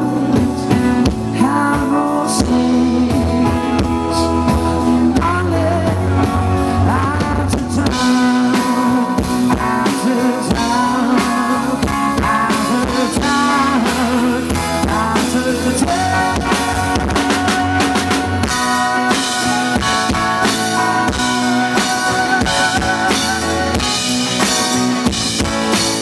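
Live rock cover band playing: electric guitar melody over bass and drum kit, with keyboards. The drums and cymbals come in harder about eight seconds in.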